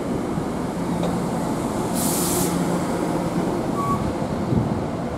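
Commuter train running at close range: a steady rumble and hum, with a short burst of air hiss about two seconds in.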